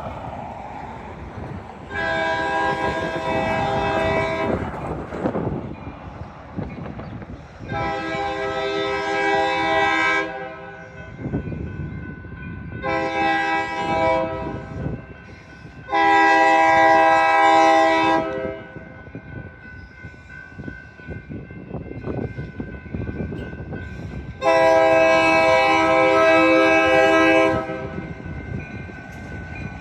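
Diesel locomotive's multi-chime air horn sounding the grade-crossing signal, long, long, short, long, then another long blast near the end, over the rumble of the passing train.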